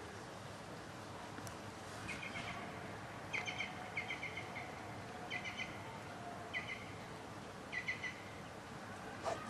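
A small bird repeatedly calling in short bursts of three or four quick high chirps, about one burst a second, over faint outdoor background noise.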